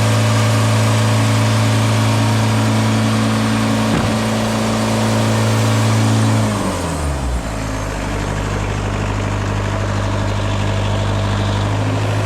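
Portable sawmill's gasoline engine running steadily. About six seconds in, its pitch slides down as it is throttled back or the blade drive is let off, and it runs on at the lower speed.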